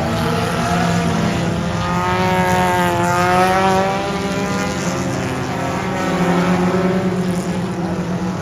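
Several race car engines running laps on a dirt oval. Their pitch dips about three seconds in and climbs again.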